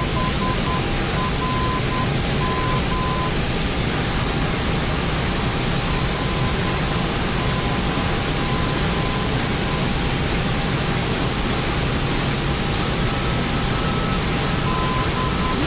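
Steady rushing noise on a Boeing 767 flight deck on final approach, with faint broken beeping tones at the start and again near the end.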